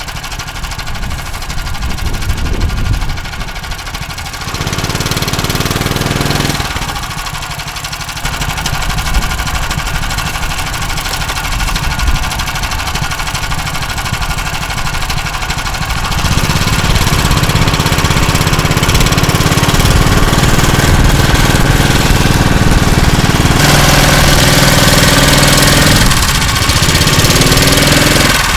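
Small engine of a tracked motorized snow pusher running under load as it struggles through deep, loose snow, its revs rising and falling several times, then held higher and louder through the second half with a brief dip near the end.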